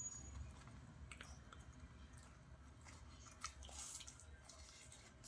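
A dog chewing leaves, faint, with scattered soft wet clicks.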